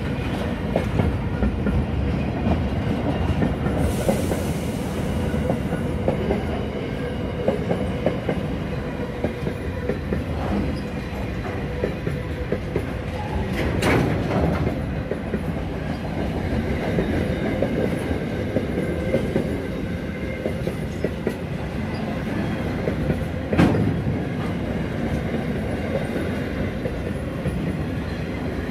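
A freight train's flat wagons rolling past at close range: a steady rumble with wheels clattering over the rail joints. A brief hiss about four seconds in, and two sharp metallic clanks, one about halfway through and a louder one near the end.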